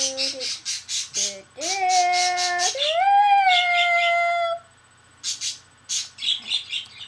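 A small pet bird chirping in quick runs of short, high chirps, under a child's voice singing long held notes. The second note slides upward about three seconds in and then holds. After a short lull near the end come a few more bursts of chirps.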